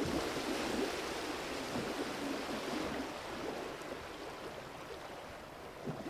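Water rushing and splashing, a steady hiss that slowly fades.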